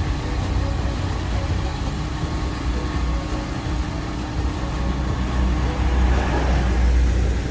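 Steady low rumble of idling engines with a constant hum, swelling louder about six seconds in.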